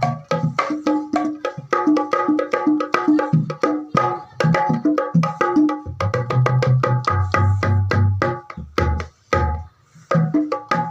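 Kemprang hand drum with buffalo-hide heads played in fast hand strokes. Sharp slaps mix with ringing pitched tones and deep bass notes that shift in pitch. The playing breaks off briefly about nine seconds in, then picks up again.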